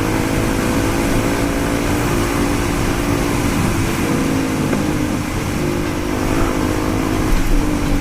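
Motorcycle engine running steadily under way, its note easing off slightly midway and picking up again, with wind rushing over the microphone.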